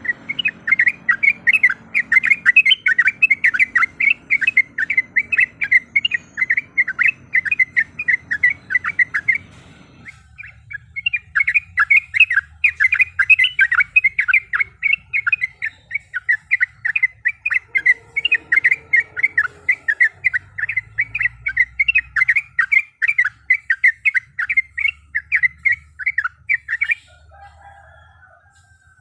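Yellow-vented bulbul singing a long, rapid rolling series of loud chattering notes, with a short break about a third of the way in and stopping shortly before the end.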